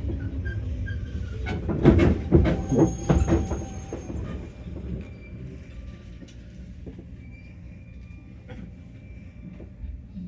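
Cabin running sound of a JR West 115 series electric train slowing into a station: a burst of loud wheel clatter over rail joints or points about two seconds in, then quieter running that gradually dies down, with a faint thin squeal from the wheels and brakes.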